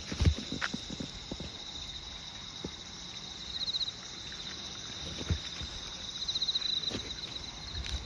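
Insects chirping steadily in a high, even drone, swelling into louder pulsing trills twice, with a person's occasional soft footsteps underneath.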